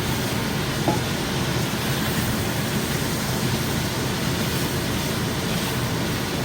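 Strips of bacon sizzling in a frying pan, a steady hiss with a small pop about a second in; the bacon is still frying, crisping at the edges but still pink.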